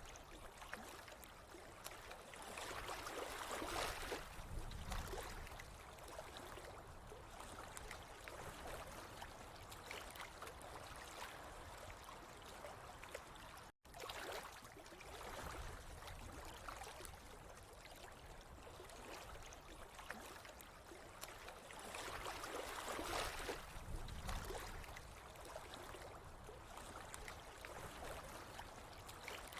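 Running water trickling and gurgling steadily, swelling louder twice. The sound cuts out for an instant about fourteen seconds in.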